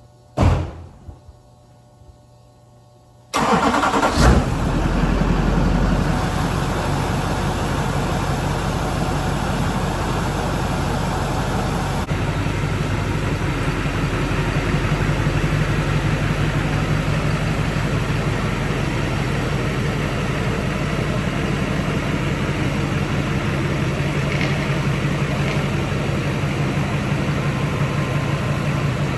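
A single thump, then about three seconds in the 2005 GMC 2500's 6.6-litre Duramax V8 turbo-diesel is cranked and starts within a couple of seconds, settling into a steady idle. It is starting on a fuel system just primed by the lift pump after air got in.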